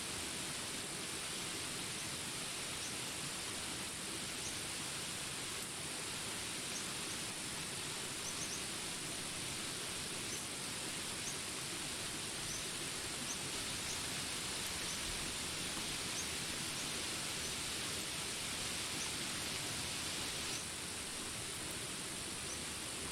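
Steady rain hiss mixed with jungle ambience: a continuous high drone and short, high chirps scattered throughout. The rain eases slightly near the end.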